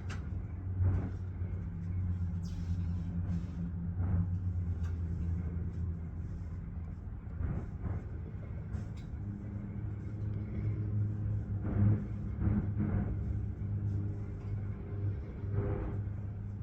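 A vehicle engine running at a steady idle-like hum, with scattered clicks and knocks over it.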